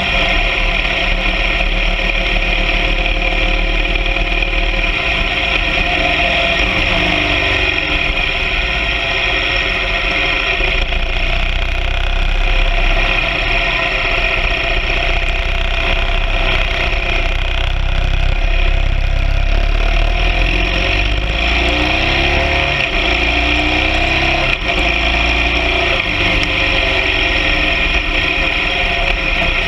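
BMW R 1200 GS Adventure sidecar rig's boxer-twin engine running steadily under way, its note shifting slightly a couple of times.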